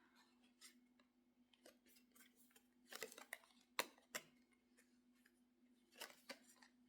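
Faint scattered clicks and light taps of tarot cards being handled, over a low steady hum.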